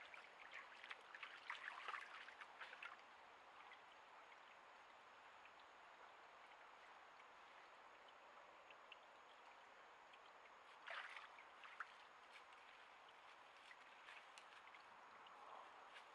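Faint, steady rush of a flowing creek. Clusters of faint crackles come over the first three seconds and again briefly about eleven seconds in.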